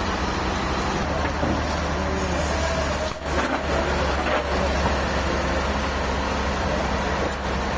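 Heavy engine running steadily with a constant low hum, dipping briefly about three seconds in.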